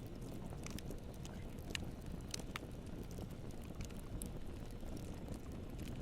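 Campfire burning: a steady low rush of flames with irregular sharp crackles and pops, a handful of them louder than the rest.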